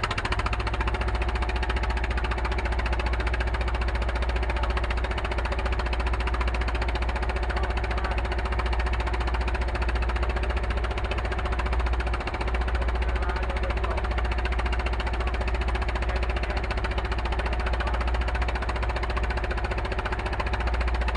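Fishing boat's engine running steadily, an even low drone without let-up.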